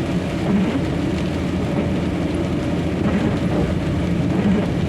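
Steady low drone inside the cab of a moving semi-trailer truck: engine and tyre noise on a rain-wet highway.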